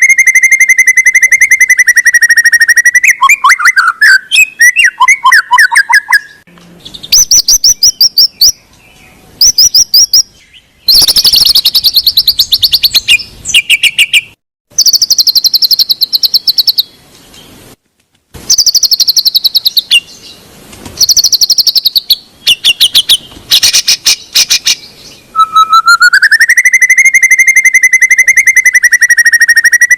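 Recorded songbird song: a long whistle that rises and then holds, followed by fast trills and dense, high chattering phrases separated by short pauses. The same sequence starts over about 25 seconds in, so it is a looped recording.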